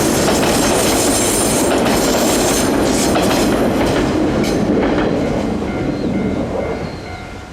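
An electric train passing close by, its wheels clattering over the rail joints, then fading away as it moves off in the last few seconds.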